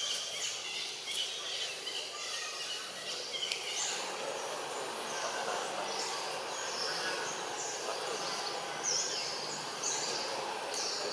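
Birds chirping over steady outdoor background noise. From about five seconds in, short high chirps repeat roughly once a second.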